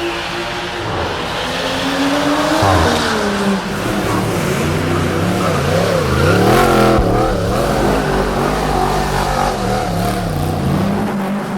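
A car engine revving hard. Its pitch climbs once and then swings up and down about once a second as the throttle is worked, with tyres squealing, typical of a car doing donuts.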